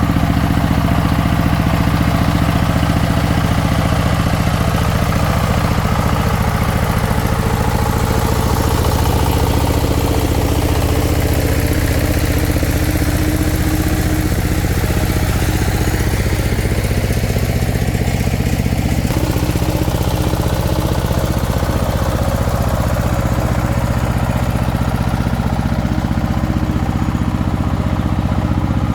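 Single-cylinder diesel engine of a restored công nông farm vehicle, running steadily at low speed.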